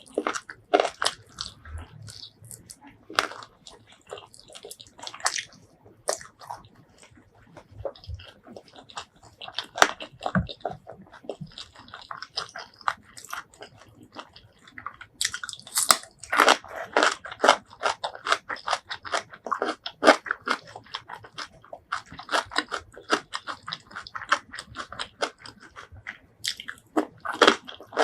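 Close-miked eating: bites, crunching and chewing in dense runs of crackly clicks, busiest in the second half.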